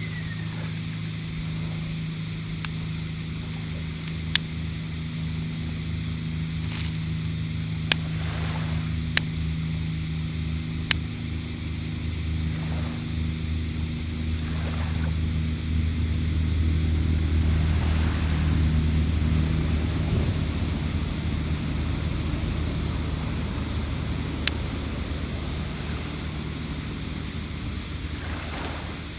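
A boat engine drones offshore as a steady low hum that grows louder towards the middle and then fades, over the wash of surf. A few sharp clicks sound now and then.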